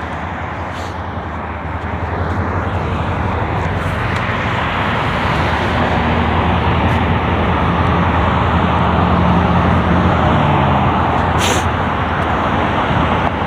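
Road traffic noise: a steady rumble of vehicles, with a low engine hum that swells about halfway through and fades again near the end.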